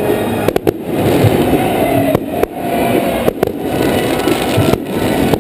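Fireworks display: aerial shells bursting overhead in a loud, dense, continuous barrage, with a few brief dips in loudness.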